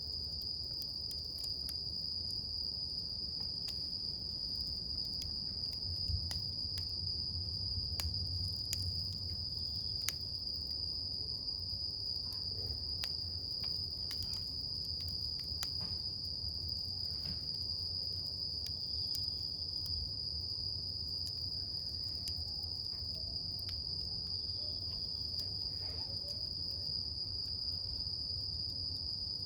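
Wood campfire crackling, with scattered sharp pops and a low rumble of flame, under a steady high-pitched trilling of crickets.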